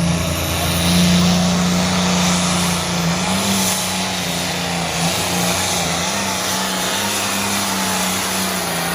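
Engine of a pulling vehicle running hard under load during a truck and tractor pull, a loud, steady drone that wavers slightly in pitch.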